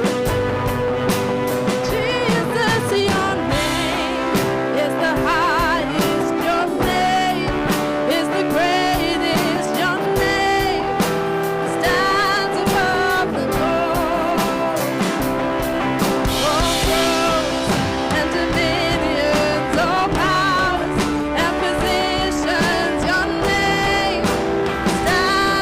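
Worship band music: guitar and drums playing under wavering sung lines.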